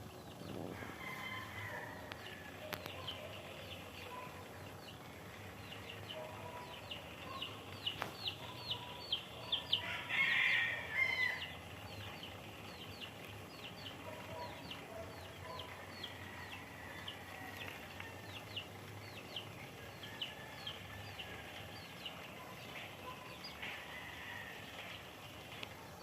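Birds calling: a long run of short, high chirps that each fall in pitch, several a second, with fainter lower calls beneath and a louder burst of calls about ten seconds in.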